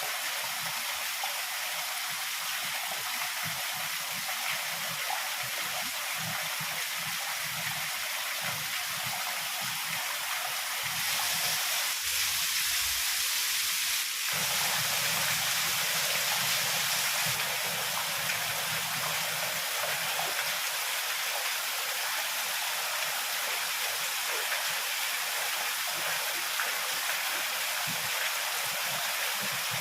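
Heavy rain pouring steadily. About a third of the way in it swells louder for several seconds, over a low rumble.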